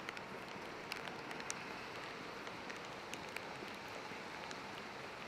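Steady hiss of rain on a city street, with a few sharp ticks of drops landing close by.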